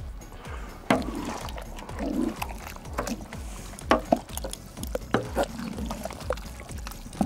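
Large spoon stirring thick tomato chili con carne in a big kettle: wet sloshing with repeated knocks of the spoon against the pot, starting about a second in. Background music with a low steady beat runs underneath.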